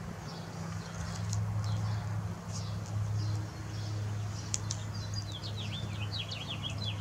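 Birds chirping, with a quick run of chirps in the last couple of seconds, over a steady low hum.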